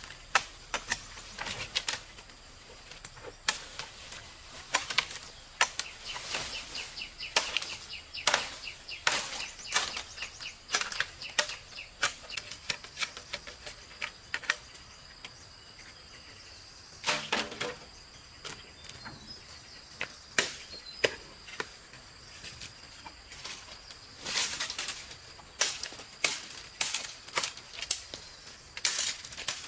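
Irregular sharp clicks and taps, a few a second, with a heavier knock about halfway through, over a faint steady high tone.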